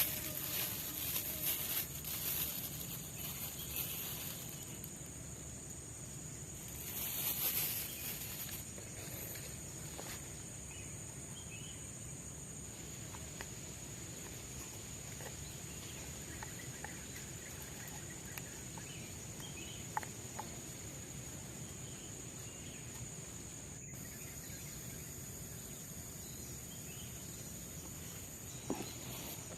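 Steady high-pitched drone of forest insects, with a louder hiss of noise in the first few seconds and again briefly about seven seconds in, and a few faint clicks.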